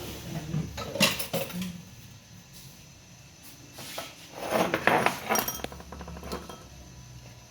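Kitchen utensils and dishes clinking and knocking as they are handled, in two short bursts: one in the first second and a half and another around the middle.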